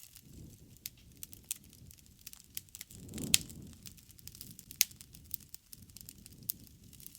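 Wood fire burning with irregular sharp crackles and pops over a low rumble of flames; the loudest pop comes a little after three seconds in, and another about five seconds in.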